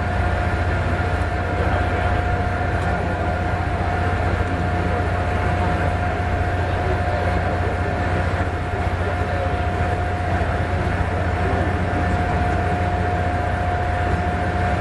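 Jet airliner engines running steadily: a constant rumble with a steady whine over it, holding level without a pass-by.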